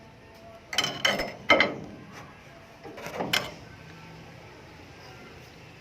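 Close-up eating sounds of aloe vera with sugar: a few short, wet bites and slurps in two clusters, three about a second in and two more about three seconds in.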